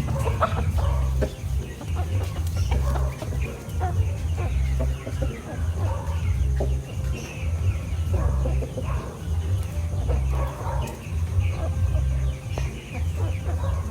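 Lavender Orpington chickens clucking, with short calls scattered throughout, over a low repeating throb.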